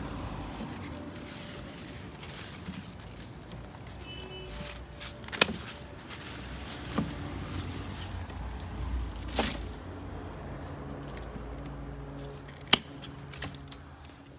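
Pruning shears snipping through blackberry canes: a handful of sharp snips several seconds apart, the loudest about five seconds in and near the end, with rustling of the plant between.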